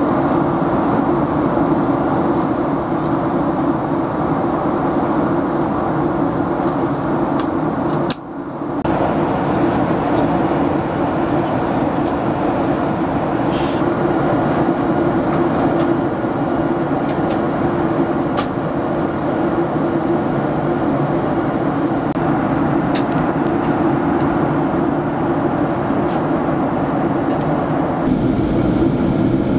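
Cabin noise inside a Boeing 777-300ER on approach: a steady rush of airflow and engine noise with a low hum, with a few faint ticks. The noise drops out briefly about eight seconds in, and a deeper rumble comes in near the end.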